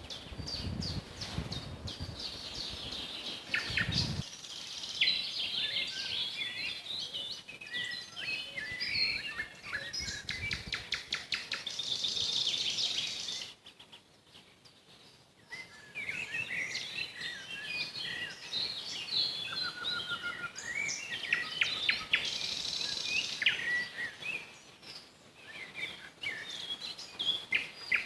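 Nightingales singing in fast, varied phrases of rapid clicks, whistles and trills, with a pause of about two seconds halfway through. A low rumble underlies the first few seconds.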